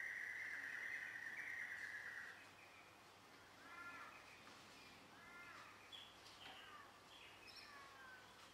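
Faint bird calls: a steady high buzz that stops a little after two seconds in, then two arching, crow-like calls about a second and a half apart, followed by short chirps.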